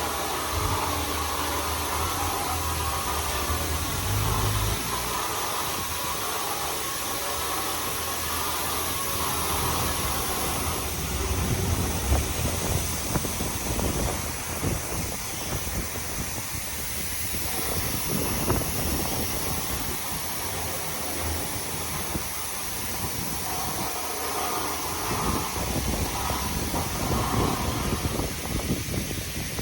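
LaserWash 360+ touchless automatic car wash spraying the car, heard from inside the cabin: a steady hiss of water spray over a low mechanical rumble that swells and eases as the gantry passes.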